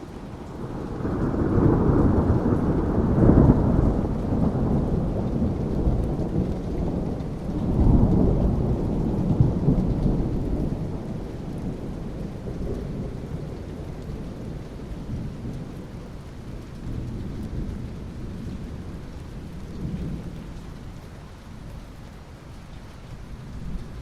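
Steady rain with a long roll of thunder that builds about a second in, swells twice, and slowly dies away.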